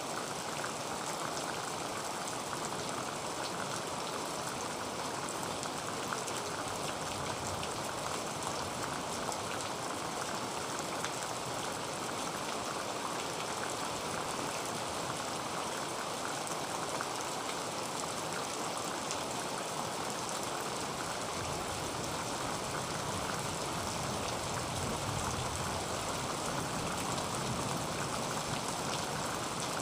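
Heavy rain falling on a tin roof: a steady, dense patter of many small drop hits, with a soft low rumble growing in the second half.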